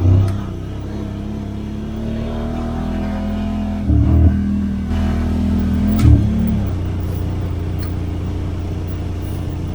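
Side-by-side UTV engine running and revving up from about two seconds in, with three short thumps: one at the start, one about four seconds in and one about six seconds in.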